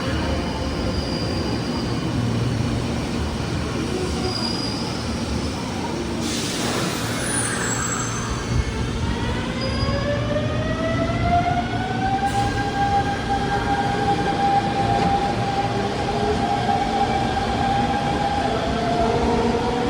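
Electric train running, its traction motors whining over a steady rumble of wheels on rail: the whine sinks slowly in pitch, a short hiss comes about six seconds in, then from about eight seconds the whine climbs and levels off as the train picks up speed.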